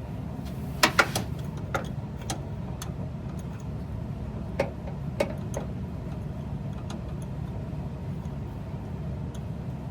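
Scattered light metallic clicks and taps, irregular and a second or so apart, from hand tools and fasteners being worked on a truck's exhaust manifold and underside. A steady low hum runs underneath.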